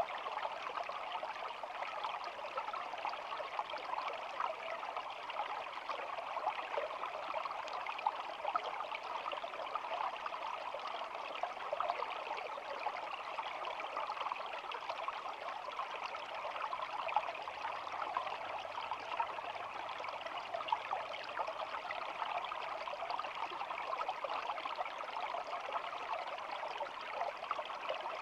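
A small stream flowing steadily, a continuous babbling trickle of water over stones.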